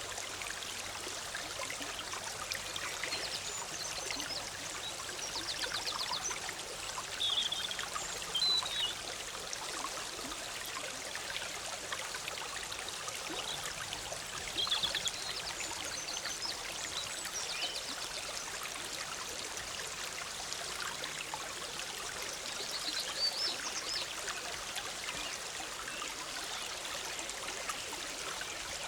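Forest stream bubbling and splashing steadily over rocks, with short bird calls breaking in every few seconds.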